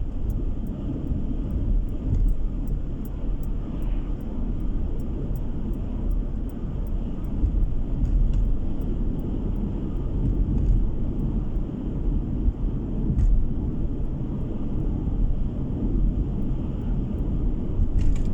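Car driving along a road, heard from inside the cabin: a steady low rumble of tyre and engine noise.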